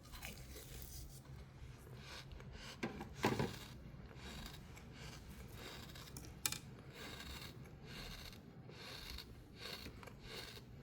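Crunchy sand being scraped and crushed in a series of strokes, with a louder crunch about three seconds in and a sharp crack about six and a half seconds in.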